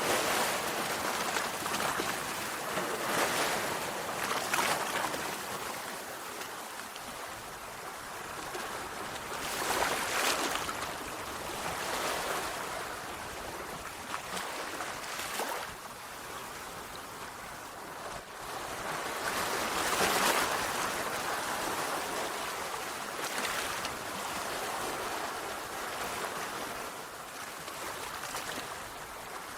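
Sea waves washing onto a shore: a steady rush of surf that swells and eases every few seconds, with the biggest surges about ten and twenty seconds in.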